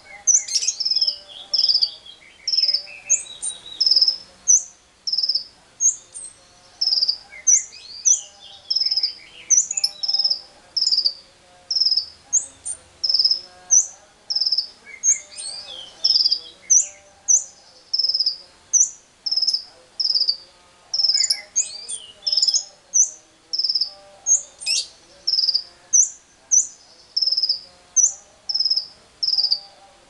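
Birds calling. One bird repeats a short, sharp, high chirp about once a second, and every few seconds quick falling runs of lower notes break in, with faint lower calls underneath.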